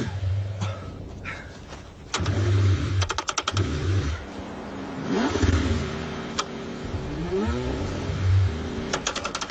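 Car engine in freezing cold, in uneven bursts of cranking and revving that rise and fall in pitch, with two runs of rapid clicking.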